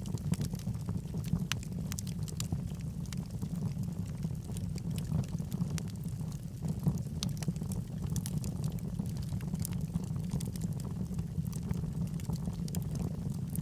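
Wood logs burning in a fireplace: a steady low rumble of the flames with frequent small, irregular crackles and pops from the wood.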